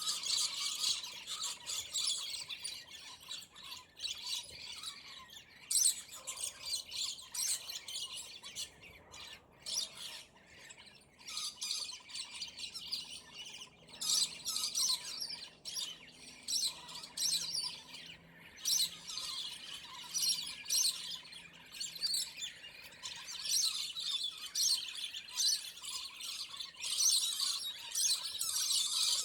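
Scaly-breasted lorikeets squawking and chattering in a rapid, unbroken stream of high calls while they fight. The calls grow busier near the start, midway, and again near the end.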